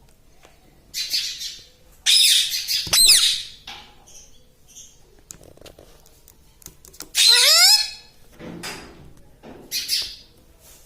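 Rose-ringed (ringneck) parakeet calling: several separate harsh squawks and shrill calls. The loudest comes about two to three seconds in, and a rising call comes about seven seconds in.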